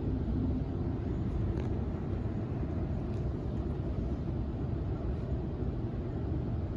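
Steady low rumble inside the carriage of a Sydney Trains Waratah A set electric train, with a few faint ticks.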